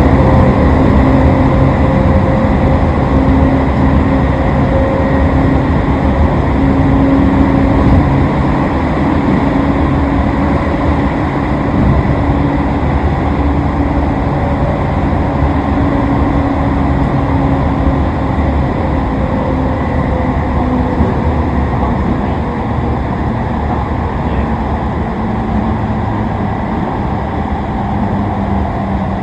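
Toei 10-300 series electric train running at speed, heard from inside the car: steady rumble of wheels on rail with a few steady hum tones, slowly getting quieter.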